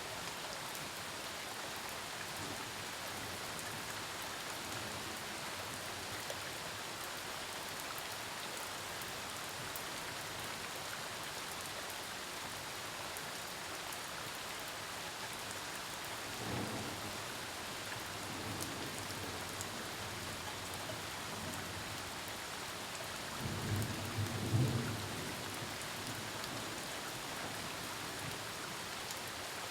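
Steady, heavy rain falling in a thunderstorm. Thunder rumbles faintly twice past the middle, then a louder, longer low rumble comes near the end.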